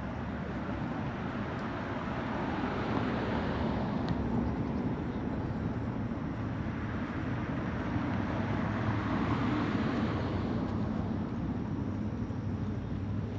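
Road traffic: two vehicles pass in turn, each a rushing sound that swells and fades, over a steady low hum.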